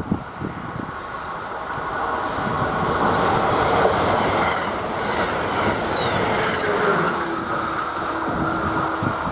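Electric passenger train passing at speed, the rush of wheels on rail building over the first few seconds and staying loud. A steady tone joins about seven seconds in.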